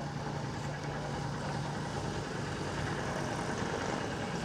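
An engine idling steadily: a low, even hum under general outdoor noise.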